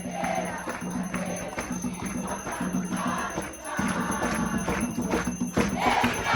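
Ritual music for Xangô: percussion keeping a steady beat, with bell-like jingles and group voices, between sung lines of the ponto.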